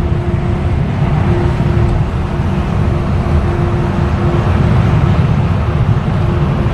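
Steady engine and road rumble of a vehicle being driven in traffic.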